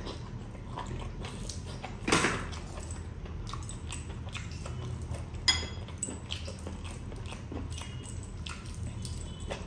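Close-up eating sounds: biting and chewing pieces of chicken leg, with short wet mouth clicks and smacks, two of them louder about two and five and a half seconds in. A low steady hum runs underneath.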